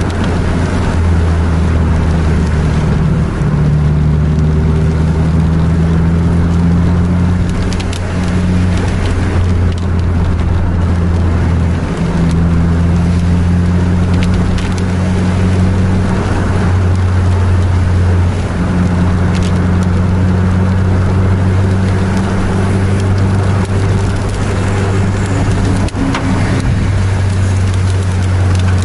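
Steady low drone of a vehicle engine at cruising speed, with tyre and road noise from a wet road, heard from inside the moving vehicle; the engine's pitch shifts slightly a few times.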